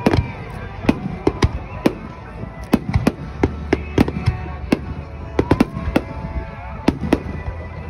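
Fireworks display: aerial shells bursting in quick, irregular succession, several sharp bangs a second over a continuous low rumble.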